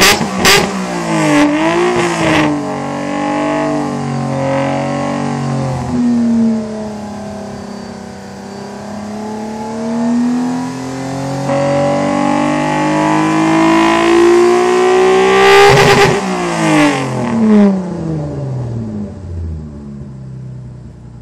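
Mitsubishi FTO engine and exhaust running, with a few sharp cracks at the start. The engine note then climbs slowly in pitch for about ten seconds. About sixteen seconds in comes another burst of crackle, then the note falls in pitch and fades away.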